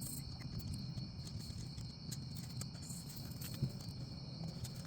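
Crickets chirring steadily in a continuous high band, over a low steady rumble.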